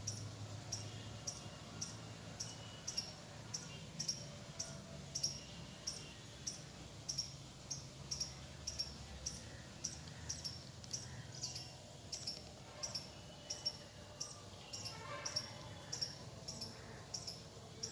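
Cricket chirping steadily, short high chirps about twice a second.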